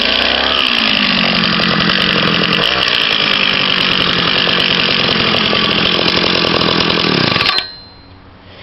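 Small two-stroke engine running loudly at high revs, its pitch dropping, then climbing and holding, before it is shut off abruptly about seven and a half seconds in.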